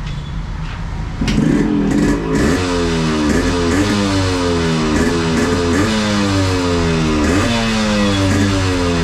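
Yamaha RX100's two-stroke single-cylinder engine being revved in repeated throttle blips, starting about a second in. Each blip jumps up in pitch and then falls away, roughly once a second.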